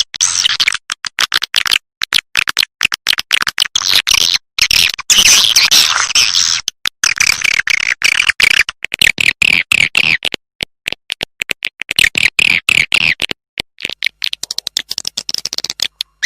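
Swiftlet lure call: a looped recording of swiftlets twittering and chirping rapidly, high-pitched, in dense runs broken by brief, abrupt silent gaps. It is the kind of call played to draw swiftlets into a nesting house.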